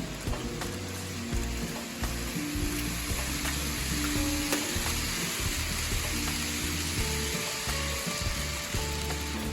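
Model trains running on a layout's track, making a steady sizzling hiss, with background music underneath.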